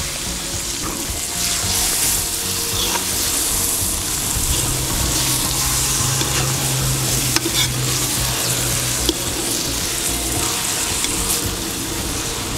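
Chicken liver with onion and carrot sizzling in hot oil in a kazan, fresh liver just added, while a metal slotted spoon stirs it. There are a few sharp ticks where the spoon knocks against the pot.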